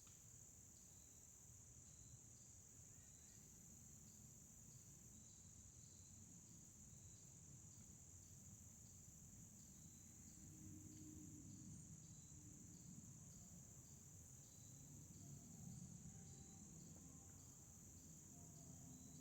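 Faint outdoor insect chorus: a steady high drone with a soft chirp repeating a little more often than once a second, over a low rumble.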